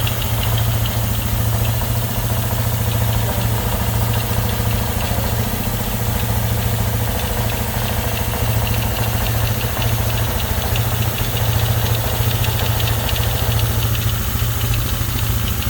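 100cc single-cylinder motorcycle engine running steadily at idle.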